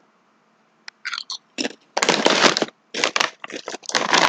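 Close-up crunching and crackling in irregular bursts, starting about a second in and growing louder toward the end.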